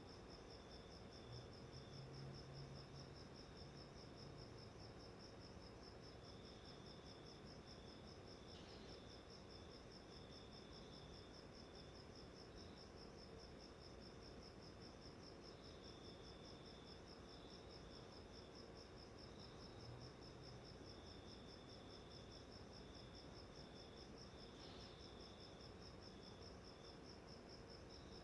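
Faint, steady insect trill: a fast, even pulsing high note that never stops, with a second, slightly lower trill coming and going.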